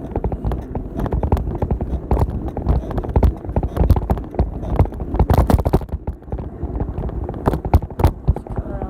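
Old bicycle rattling and clattering as it is ridden, heard from a handlebar-mounted camera: a constant run of irregular knocks and clicks over a low rumble.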